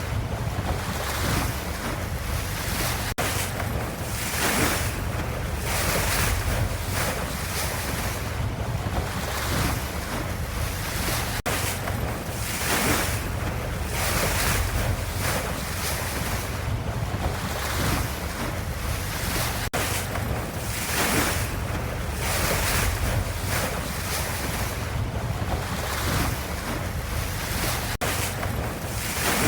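Ocean waves washing, a continuous rush of surf with a deep rumble beneath and swells that rise and fall every second or two.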